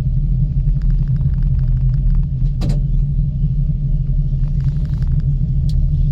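Miyajima Ropeway gondola in motion: a steady low rumble and hum, with light ticks and one sharper click about two and a half seconds in.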